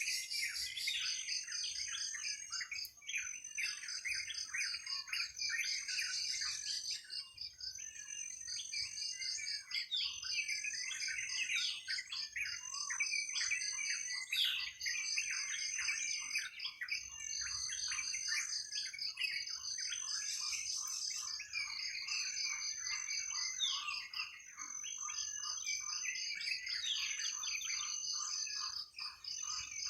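A chorus of many birds chirping and calling over one another, with a high, rhythmic pulsing trill repeating in regular bouts every second or two above them.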